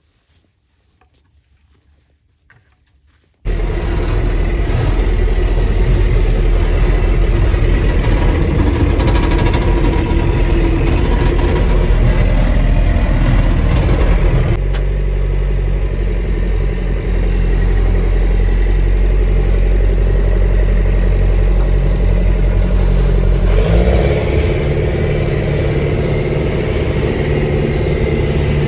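Farm tractor engine running steadily while hauling a hay bale. It comes in suddenly about three and a half seconds in and changes pitch about halfway through and again near the end.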